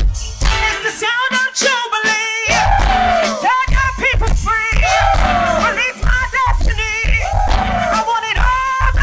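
Church choir singing with a live band, sung lines over a heavy, pulsing bass and drums.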